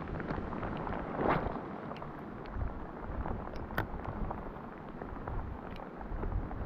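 Wind buffeting the microphone over a steady rushing noise, with a brief swell about a second in and a few faint ticks.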